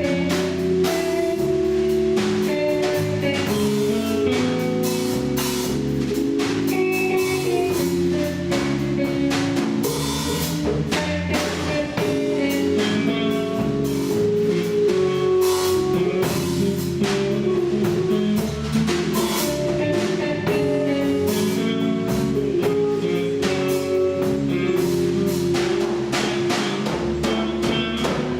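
A band playing an instrumental passage on drum kit and guitars, with a steady beat and no singing.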